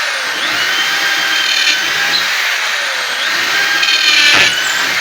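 MPT 550 W electric impact drill in drilling mode, running and boring into a piece of wood. The motor whine rises and falls with the load and is loudest about four seconds in.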